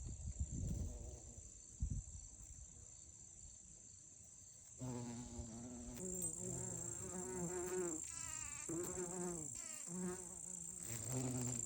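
Bumblebees buzzing as they fly among basil flowers close by, a low droning hum whose pitch wavers as they move. It comes in about five seconds in after a quieter stretch. A thin, steady high-pitched insect trill runs underneath.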